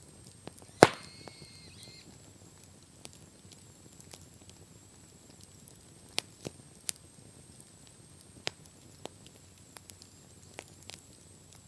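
Wood bonfire crackling: scattered sharp pops and snaps from the burning wood, one much louder pop about a second in.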